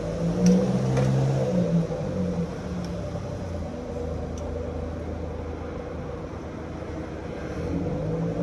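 A motor running steadily, with a few light clicks, a little louder in the first two seconds.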